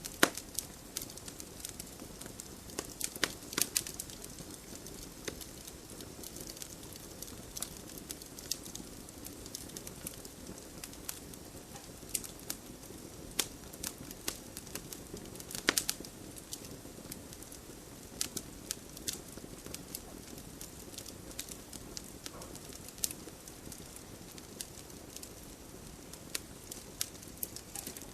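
Wood campfire crackling: irregular sharp pops and snaps over a steady low hiss of burning, with the strongest pops at about three and a half seconds and at about sixteen seconds.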